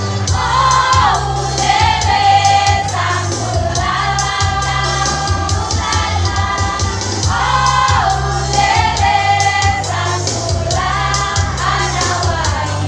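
Choir singing held phrases together over accompanying music with a steady, pulsing bass line.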